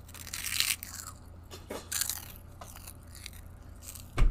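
A child biting and chewing crunchy bacon-flavoured tocineta chips: several separate crunches, then a single loud thump near the end.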